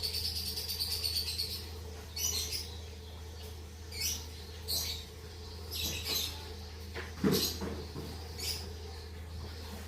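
Lovebirds chirping: a fast run of high chirps, then short separate chirps every second or so, with a dull thump about seven seconds in. A steady low hum runs underneath.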